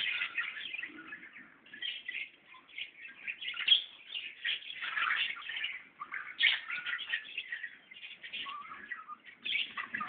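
Many small birds chirping at once, a dense, continuous twittering of short high calls with brief lulls.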